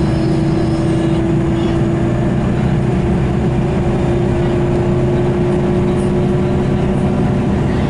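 Scania L94UB bus under way: its diesel engine runs steadily and the ZF automatic gearbox gives a clear whine that rises slightly in pitch as the bus gathers speed.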